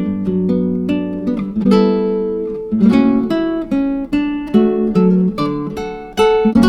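Background music: acoustic guitar picking and strumming, with notes and chords that sound and fade one after another.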